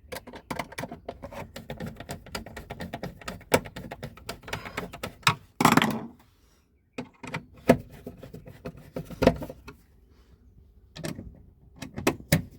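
Rapid small clicks and taps of a screwdriver and panel parts as a new breaker is tightened down in an RV's breaker panel. A louder scraping knock comes just under six seconds in, followed by a short lull before the clicking resumes more sparsely.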